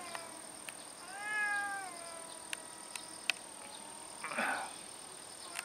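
A cat's long, drawn-out yowl about a second in, rising and then falling in pitch: the warning call of a cat facing a rival on its territory. A short rough sound follows near the end.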